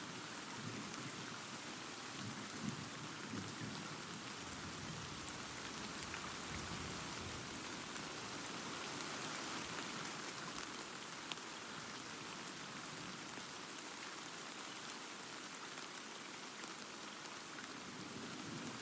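Steady heavy rain pattering on surfaces, with scattered sharper drops. A low thunder rumble swells under it for the first several seconds.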